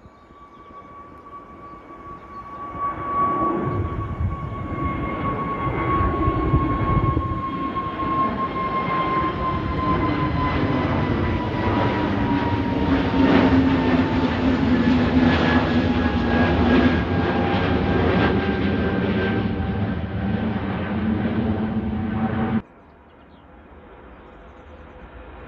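Airliner engines at takeoff power: the noise swells about three seconds in and holds loud, with a high whine that slowly drops in pitch as the aircraft goes past. It cuts off abruptly near the end, leaving a quieter engine noise that begins to rise.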